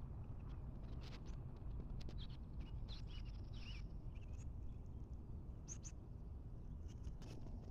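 Faint, short bird chirps, a few clustered a couple of seconds in, over a low steady background rumble with scattered light ticks.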